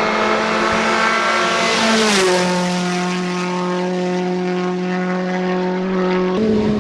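A steady, loud droning hum with one pitch and many overtones, dropping slightly in pitch about two seconds in and stepping back up near the end.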